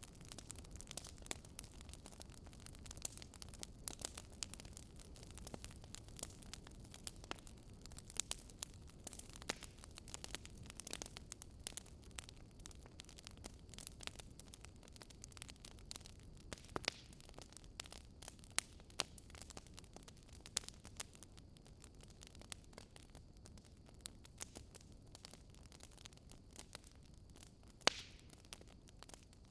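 Wood fire crackling: a low steady hiss of burning with frequent small, irregular pops and snaps, a sharper pop near the end.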